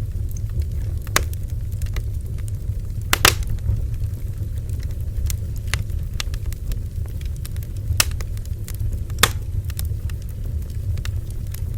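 Bonfire burning with a steady low rumble and irregular crackles and pops from the burning wood, a few of them sharper and louder.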